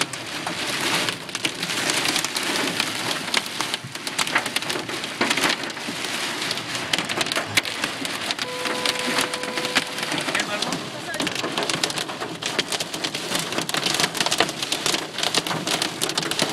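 Torrential tornado-driven rain pelting a car's windshield and body, heard from inside the car: a dense, loud hiss with many sharp ticks and taps of impacts. A short steady tone sounds briefly about halfway through.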